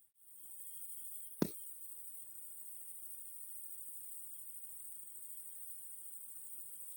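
Steady high-pitched chirring of crickets, with a single sharp knock about a second and a half in.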